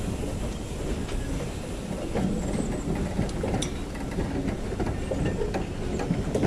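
Heritage railway train running along the track: a steady rumble with wheels clicking over the rail joints.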